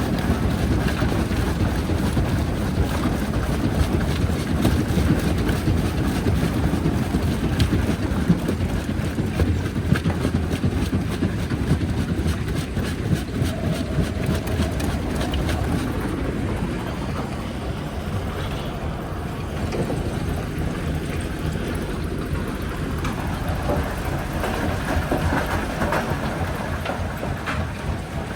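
Jaw crusher running under load, a steady low rumble with frequent cracks and knocks of rock breaking between its jaws.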